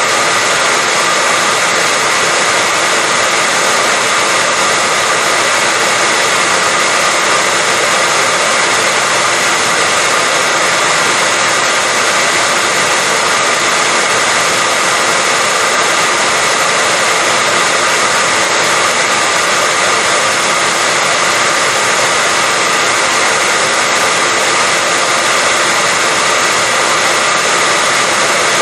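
Hair dryer running steadily: an even, unchanging whoosh of blown air and motor hum with a faint steady whine, used as white noise to put babies to sleep.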